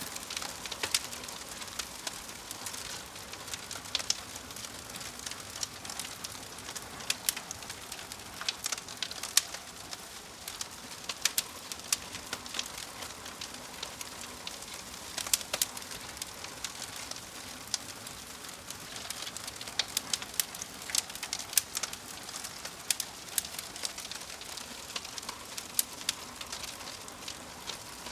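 Wood logs burning in a fireplace, crackling: a steady soft hiss with irregular sharp pops and snaps, sometimes several in quick succession.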